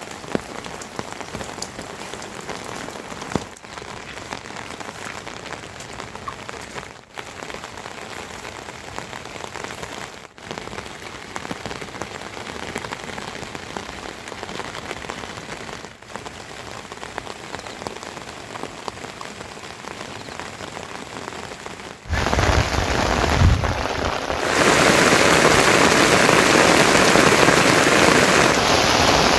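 Rain falling steadily, becoming much heavier about three-quarters of the way through, with a brief low rumble as it swells into a downpour.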